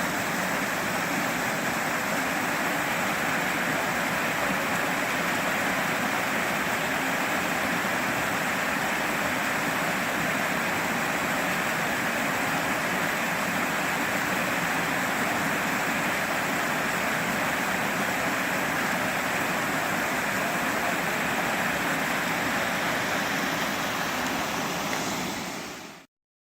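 Creek water rushing steadily over rocks, a continuous loud wash, fading out quickly near the end.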